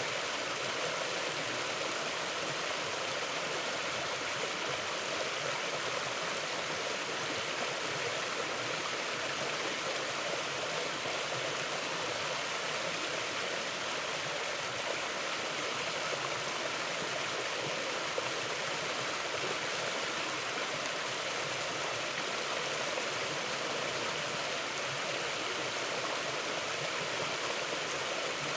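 Mountain river flowing, a steady, even sound of running water that does not change.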